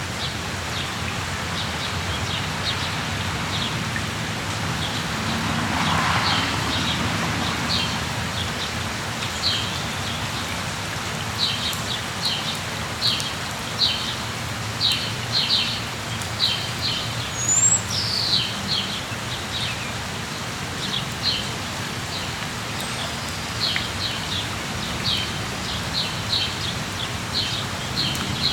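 Steady rain falling, with small birds chirping in quick, short, high notes that come often through the second half. A brief swelling rush of noise comes about six seconds in.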